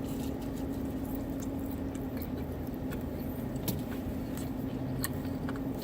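Steady low hum with a constant tone, as of a car's interior with the engine or fan running, and a few soft clicks.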